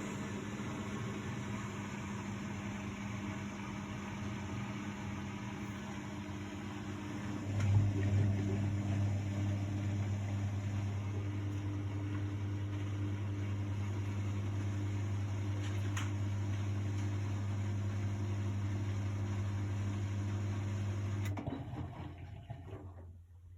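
1999 Miele Novotronic W828 front-loading washing machine running with a steady mechanical hum. About a third of the way in, a click and a strong low hum start, typical of the drain pump switching on. Near the end the machine stops and its sound dies away over a couple of seconds.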